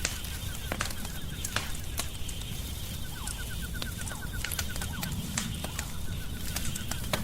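Wood fire crackling, with sharp pops scattered irregularly over a steady low rumble. A faint, rapid chirping series repeats in short runs underneath.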